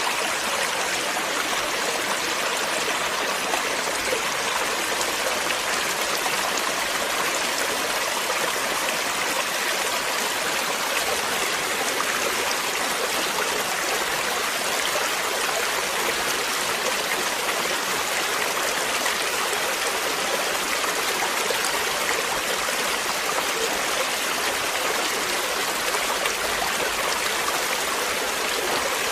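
Running water of a stream, a steady continuous rush without breaks.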